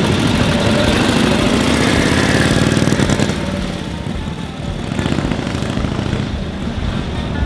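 1942 Harley-Davidson WLA's flathead V-twin engine running, louder for the first three seconds and then easing off.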